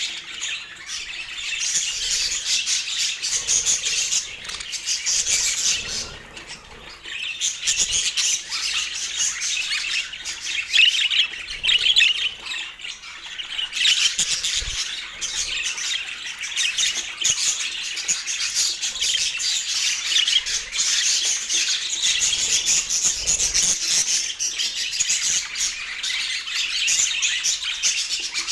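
Budgerigars chattering and squawking in a dense, continuous stream of warbles and chirps, dipping briefly about six seconds in.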